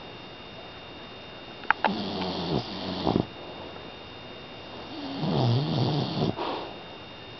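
Five-month-old pit bull puppy snoring in her sleep: two long snores a few seconds apart, the first starting with a couple of sharp clicks.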